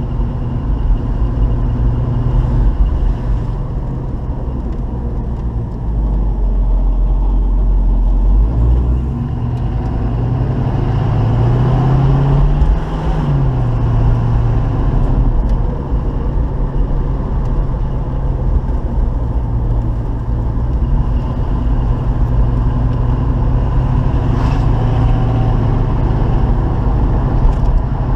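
1972 Chevy Nova's 350 V8 idling steadily at full operating temperature, with one brief rev up and back down about twelve seconds in.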